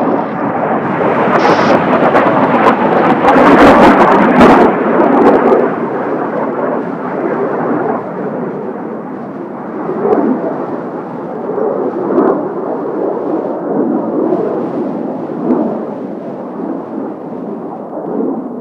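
Jet roar of Blue Impulse Kawasaki T-4 jet trainers flying the vertical climb roll, swelling to its loudest about four seconds in, then falling to an uneven rumble that slowly fades.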